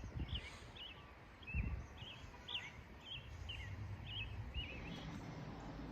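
A bird calling over and over in short chirps, about two a second, that stop about two-thirds of the way through. Under it is a low wind rumble that swells briefly about a second and a half in.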